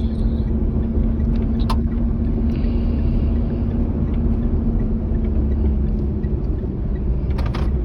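A manual car's engine running, heard from inside the cabin: a steady low rumble with a constant hum. There is a short click about two seconds in and a couple more near the end.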